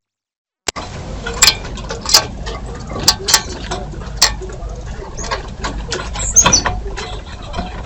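Birds at a feeder: a string of sharp taps and knocks, with a few short high chirps about two-thirds of the way in. It starts after a moment of silence.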